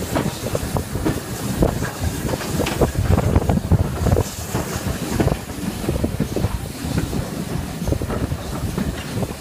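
A train rolling slowly over jointed track, its wheels knocking irregularly on rail joints over a steady rumble, with wind buffeting the microphone.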